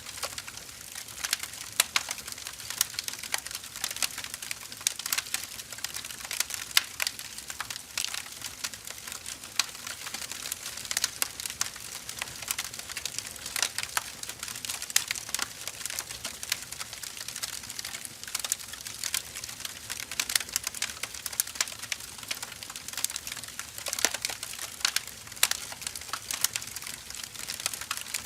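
Firewood burning in a fire, crackling and popping irregularly with many sharp snaps over a soft steady hiss.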